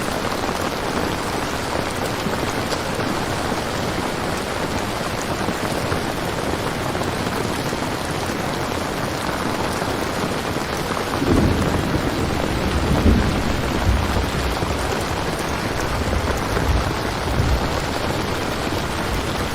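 Steady rain falling, with a roll of thunder that rumbles in about halfway through, peaks soon after and dies away a few seconds later.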